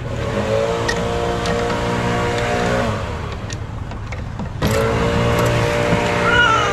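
Small gas engine of lawn-care equipment running at a steady high pitch. A few seconds in it is throttled down, then it jumps back up to full speed.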